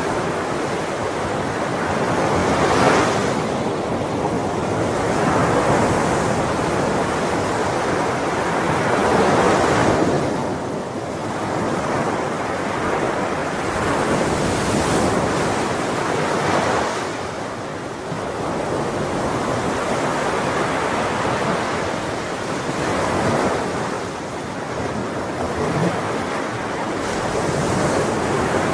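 Ocean waves breaking and washing on a shore, the surf rising and falling in slow swells every few seconds.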